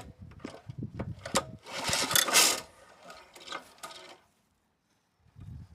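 Pull-start of a cold Honda HR215 lawnmower: clicks and knocks of handling, then one loud rasping whirr of the recoil starter cord being pulled, with no steady engine running after it.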